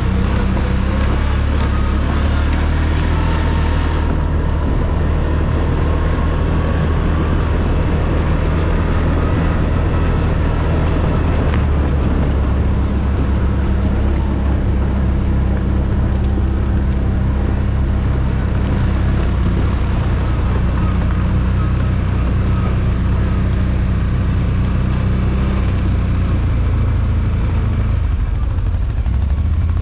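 ATV engine running steadily under way, its pitch shifting slightly a couple of times.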